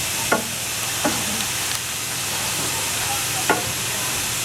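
Steam locomotive hissing steadily, with three short sharp knocks: about a third of a second in, at about a second, and at about three and a half seconds.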